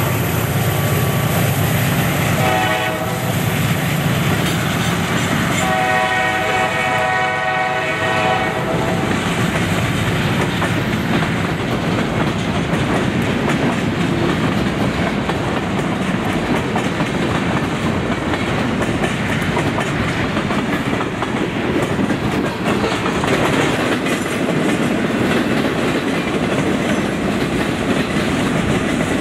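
A diesel-hauled train running past with wheels clicking over the rails, its horn sounding twice: a short blast about three seconds in, then a longer one of about three seconds.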